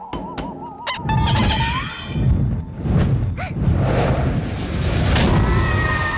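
Cartoon sound effects over music: a warbling, wavering tone that slides upward about a second in, followed by a long loud rumbling noise with a few sharp knocks.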